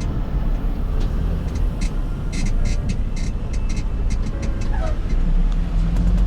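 Semi truck's engine running steadily, a low rumble heard from inside the cab, with scattered short clicks over it.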